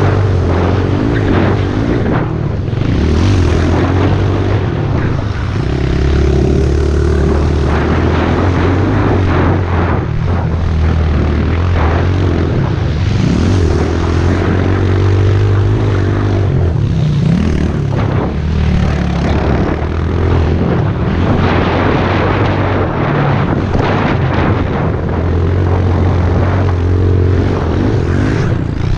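Pit bike's small single-cylinder engine running hard while riding, its pitch rising and falling as the rider revs and backs off.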